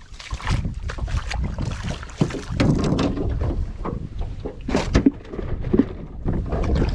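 Wind buffeting the microphone in uneven gusts, a deep rumble, with irregular knocks and rustles of handling.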